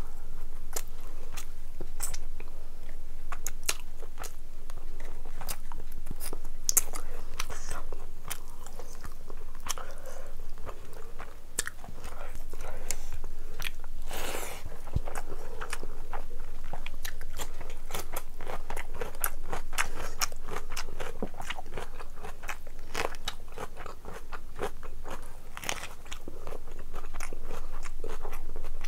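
Chewing and mouth sounds of a person eating rice and curry by hand: a dense run of quick wet clicks and smacks, with a longer smear of noise about halfway through.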